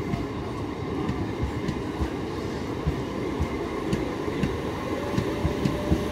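Passenger train coaches rolling past, a steady rumble with the wheels knocking repeatedly over the rail joints.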